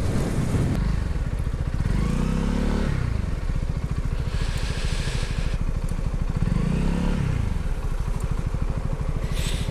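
Honda CB125R's 125 cc single-cylinder four-stroke engine running under way, its revs rising and falling twice. A brief hiss comes about halfway through.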